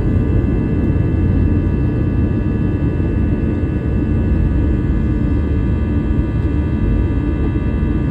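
Airliner's jet engines and airflow during takeoff: a steady low rumble with a constant high engine whine held throughout.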